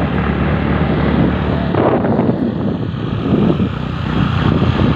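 Motorcycle engine running at speed while riding, with wind rushing over the microphone.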